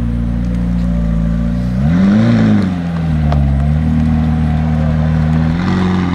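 A car engine idling, blipped once about two seconds in so that the pitch climbs and falls back, then idling again with a smaller rev near the end.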